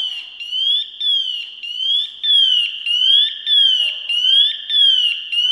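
Firefighter's SCBA air pack sounding its electronic alarm: a loud, high warbling tone that sweeps up and down in pitch, almost twice a second. The pack has had its air released, and the alarm going off shows its warning system works.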